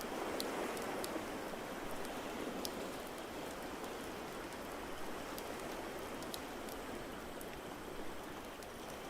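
Fireplace crackling, with scattered sharp pops and snaps, over a steady rush of water noise.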